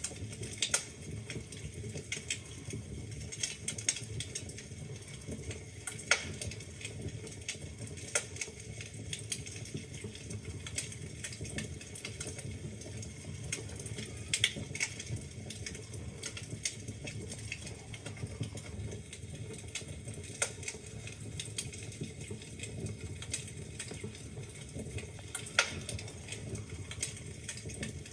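Wood fire burning in a fireplace: a steady low rumble of flames with irregular crackles and snaps of burning logs, a few sharper pops standing out, one of the loudest near the end.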